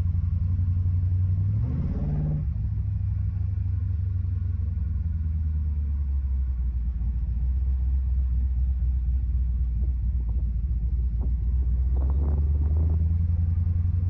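6.0-litre LS V8 pulling the car along, heard from inside the cabin: a steady low rumble, with revs rising briefly and dropping back about two seconds in.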